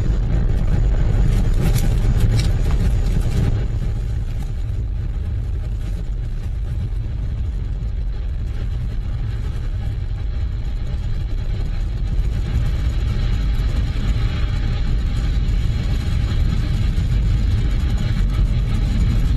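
Falcon 9 rocket's nine Merlin engines during ascent: a loud, steady low rumble with crackle. It eases a little about four seconds in and builds again later.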